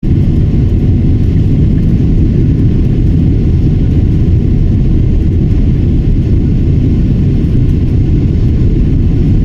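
Jet airliner taking off: a loud, steady, low rumble of engines and the takeoff run, with no clear rise or fall.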